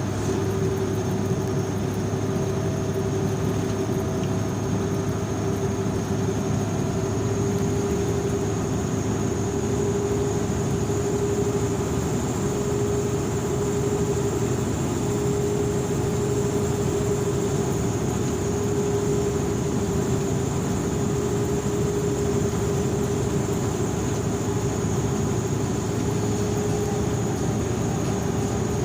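A vehicle driving steadily, its engine and road noise making an even drone with a steady hum and a faint high whine over it.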